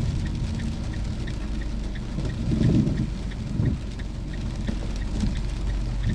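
Car cabin road noise: a steady low rumble of the engine and tyres, with a turn signal ticking at about three clicks a second during a left turn, and two brief louder swells in the rumble a few seconds in.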